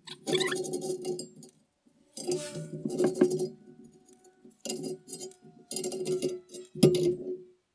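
Metal clinking and rattling of hand tools working the rusted exhaust fasteners under a Land Cruiser BJ42, in four bursts, each carrying a ringing metallic note.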